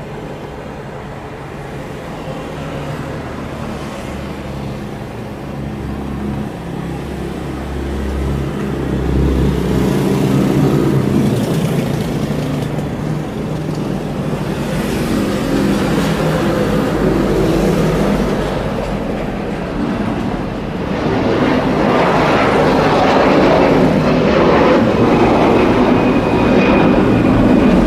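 Airbus A330-200 airliner with Rolls-Royce Trent 700 engines at takeoff thrust: a broad jet rumble that grows steadily louder, swelling again about three-quarters of the way through.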